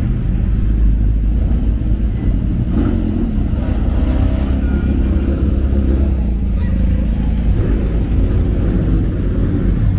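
A car engine running steadily close by, with no sharp revs.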